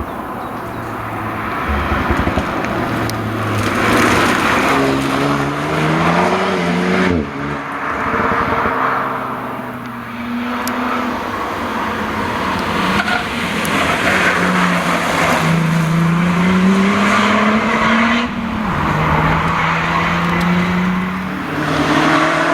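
Historic rally car engines at full throttle on a rally stage. The pitch climbs and drops back several times as the cars change gear and pass.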